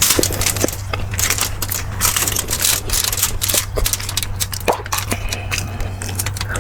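Close-up chewing of beef bulalo: wet mouth clicks and crunches at an irregular pace, over a steady low hum.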